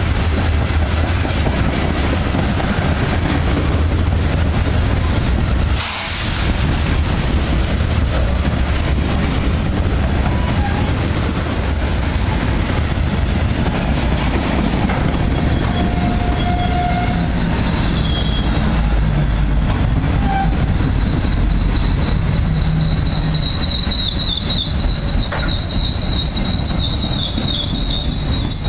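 Freight cars rolling past with a steady rumble and clatter of wheels on rail. About six seconds in comes a short sharp hiss of air, which the uploader takes for the train's air line going in an emergency brake application. From about eleven seconds, high-pitched wheel squeal sets in under braking and grows stronger and more layered near the end.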